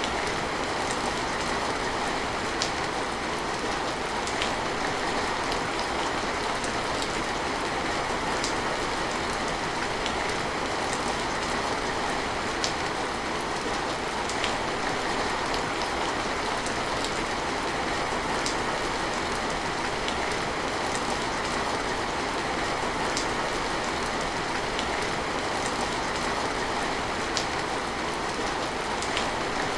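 Steady rain falling, a constant hiss with scattered sharper drop ticks landing on surfaces.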